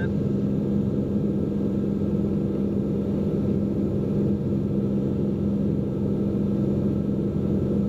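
Cessna P210N in flight, heard in the cabin: its turbocharged six-cylinder engine and propeller running steadily, an even drone with a strong steady hum.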